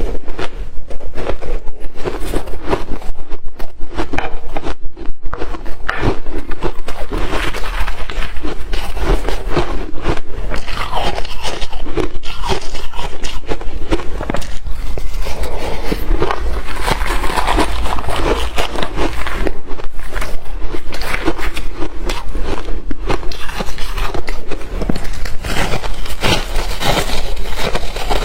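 Close-miked chewing of freezer frost and shaved ice: a dense, unbroken run of crisp crunches.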